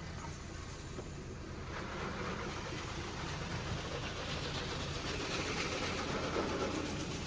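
Automatic touchless car wash gantry spraying pre-soak over the car, heard from inside the cabin: a steady low machine hum with a hiss of spray that swells about two seconds in.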